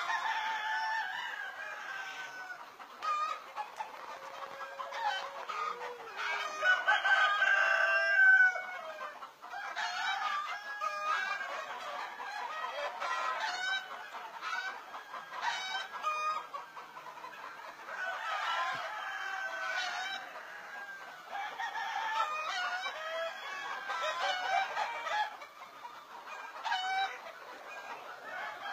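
A flock of desi chickens clucking and calling over one another without a break, with a rooster crowing; the loudest calls come about seven to eight seconds in.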